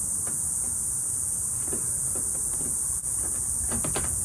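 Steady high-pitched drone of insects, with a few faint clicks near the end from screws being worked out of a pickup's door panel.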